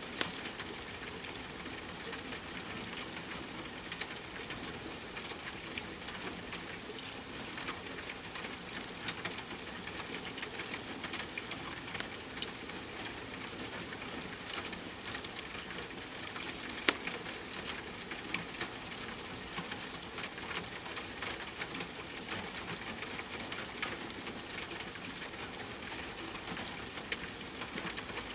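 Steady rain mixed with a crackling wood fire: a constant hiss broken by frequent sharp pops and clicks, one louder pop a little past the middle.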